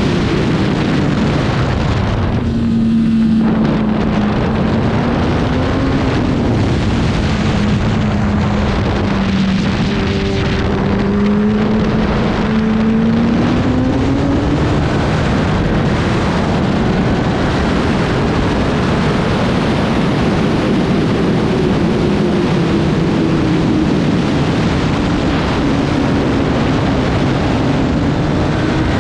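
Racing motorcycle engine heard onboard at speed, its note rising and falling as it is worked through the gears, over heavy wind rush on the microphone.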